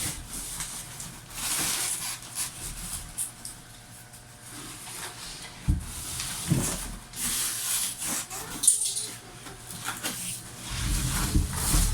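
Cardboard and plastic packaging being wrestled open by hand: irregular rustling and scraping, with a few knocks in the middle and heavier thumps near the end as the large speaker box is shifted.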